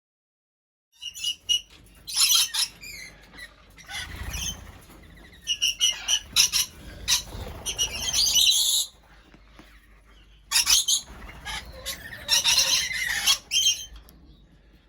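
Aviary birds screeching and chirping in repeated harsh bursts, starting about a second in, with a low rumble under some of the calls.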